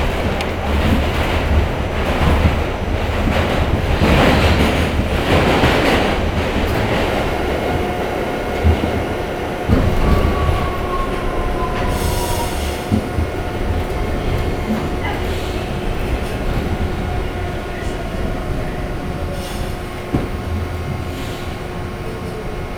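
An R68 subway car running through the tunnel, heard from inside: a heavy rumble of wheels on rail with knocks over the joints. A high tone falls slowly in pitch in the second half as the train slows.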